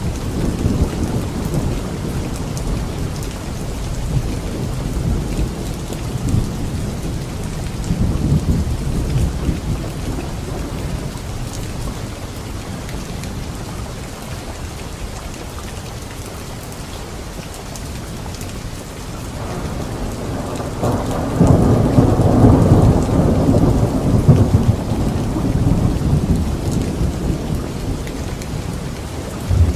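Thunderstorm: steady rain falling with rolling thunder. The rumbling swells in the opening seconds, eases off, then builds again into a loud roll of thunder about two-thirds of the way through.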